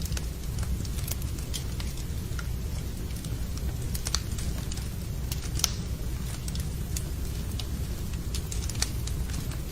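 Wood fire burning in a fireplace: a steady low rumble with irregular sharp crackles and pops, the loudest snap a little past halfway.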